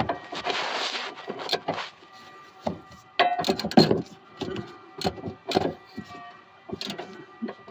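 Hand ratchet turning a 17 mm sway bar link nut, with irregular clicks and knocks of metal on metal as it works and the tool shifts.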